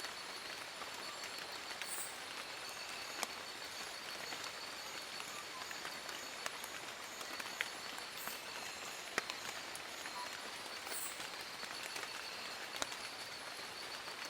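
Steady rain falling on forest leaves: an even hiss with irregular louder single drops pattering close by. A faint steady high note runs underneath.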